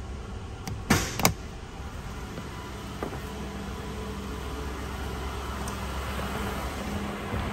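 Steady low rumble of the Lexus LX470's 4.7 L V8 idling, slowly growing louder. Two sharp knocks about a second in.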